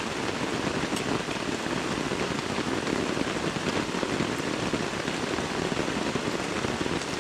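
Heavy tropical rainstorm: rain pouring steadily in an even rush.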